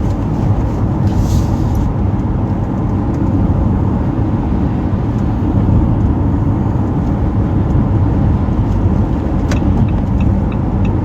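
Steady road and engine rumble of a car driving, heard from inside the cabin, with a faint click or two near the end.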